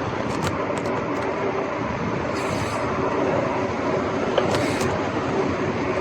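Scott Scale Gravel 10 bike rolling along a street: steady tyre and road noise with scattered rattling clicks, and two short hisses about two and a half and four and a half seconds in.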